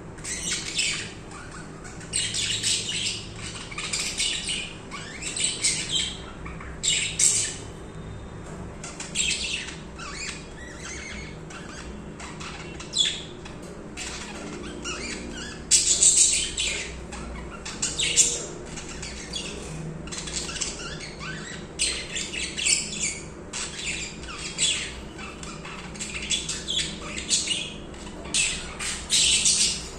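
Budgerigars chirping and warbling in near-continuous high, rapid bursts, with a few louder sharp calls.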